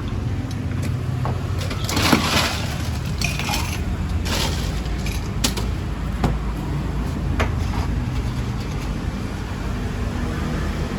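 Street traffic ambience: a steady low rumble of passing vehicles, with a handful of short crackling, clattering noises between about two and six seconds in.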